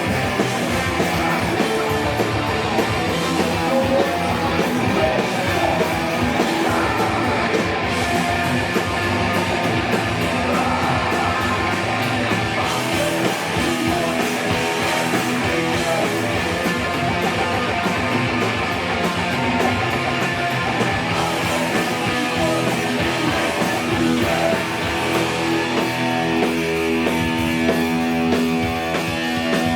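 Live rock band playing, with loud distorted electric guitars held steady through the whole stretch.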